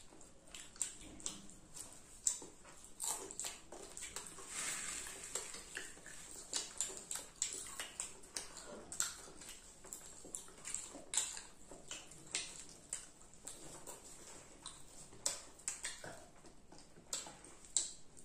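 Close-up eating sounds of children chewing popcorn: irregular soft crunches and wet mouth clicks, with hands rummaging through a loose pile of popcorn.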